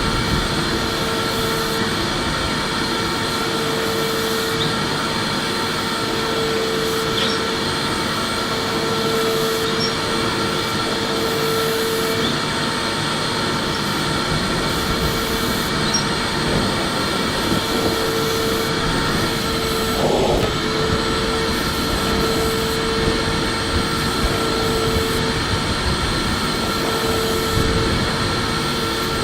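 Electric vacuum cleaner running continuously: a steady motor whine over rushing air, with a lower hum that swells and fades every second or two.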